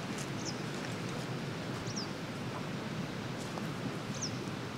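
A small bird giving a short, high, falling call a few times, over a steady outdoor hiss.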